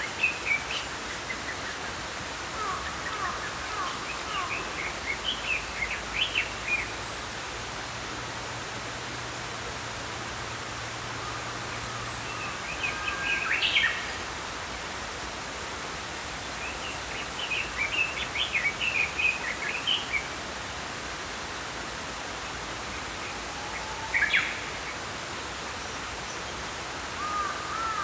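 Small songbirds chirping in short bursts every few seconds over the steady rush of a flowing stream.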